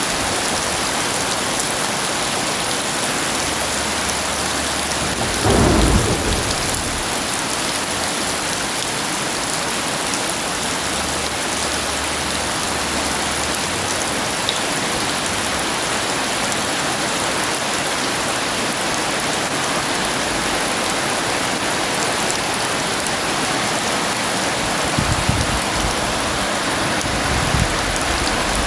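Heavy rain pouring steadily, with a clap of thunder about six seconds in and low thunder rumbles near the end.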